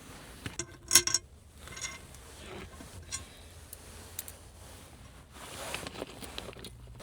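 Light metallic clicks and clinks of small screws and tools being handled on an aluminium roof rack crossbar as its screws are loosened and removed, with one louder ringing clink about a second in.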